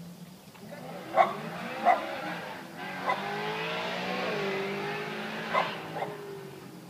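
BMW M3 E92's V8 running through a loud aftermarket Supersprint exhaust, the pitch climbing as it accelerates and getting louder in the middle. A dog barks several short times over it.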